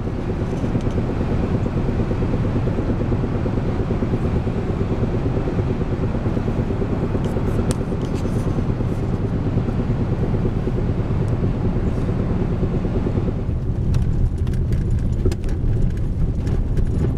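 Pickup truck driving, heard from inside the cab: a steady low rumble of engine and tyres. About 13 seconds in it turns lighter, with scattered knocks and rattles.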